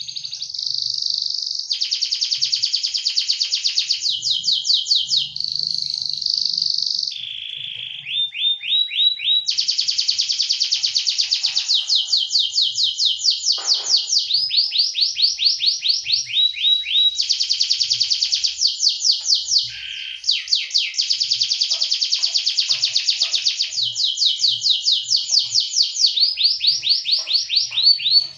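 Domestic canary in full, non-stop song: long runs of rapid repeated trills, high-pitched and loud, switching to a new trill type every second or few.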